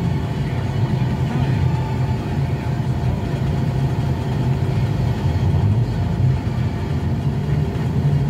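Car engine idling, heard from inside the cabin in slow traffic: a steady low hum.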